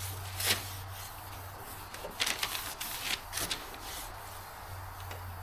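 Short scraping strokes of something rubbing over a car's painted body panel, a few at a time, over a steady low hum.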